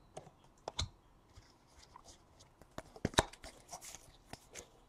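Faint, scattered clicks and light rustles of trading cards being handled and sorted by hand, with a small cluster of clicks about three seconds in.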